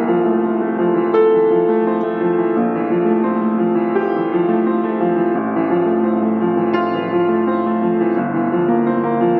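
Slow instrumental piano music with held chords that change every second or two.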